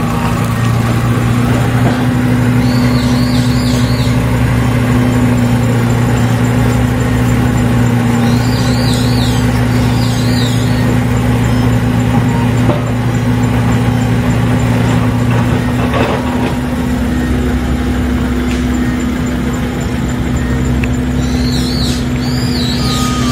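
A motor vehicle's engine idling, a steady low hum whose deepest tone drops out about fifteen seconds in. Birds chirp briefly above it three times.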